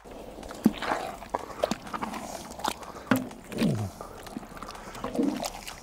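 Thick chili con carne being stirred in a large kettle, with irregular knocks and scrapes of the stirring utensil against the pot.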